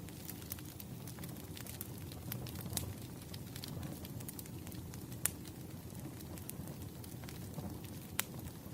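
Wood fire burning: a steady low rumble of flames with scattered sharp crackles and pops, two pops louder than the rest, one about halfway through and one near the end.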